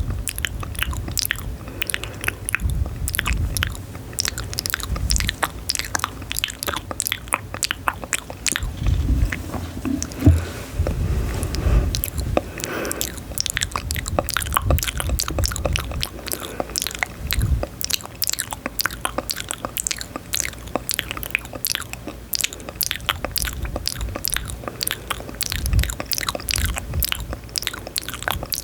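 Close-miked chewing and biting: a dense, continuous run of sharp, crisp crunches and mouth clicks.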